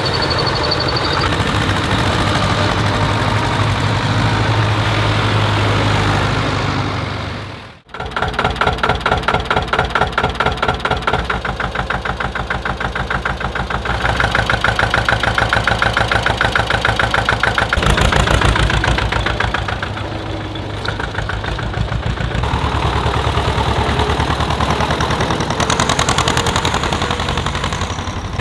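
Tractor diesel engines running and idling. About eight seconds in the sound cuts off sharply and another engine takes over with an even, pulsing chug.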